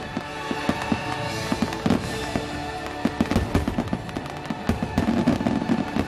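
Fireworks crackling and popping in quick succession, many small sharp bangs, with show music playing underneath.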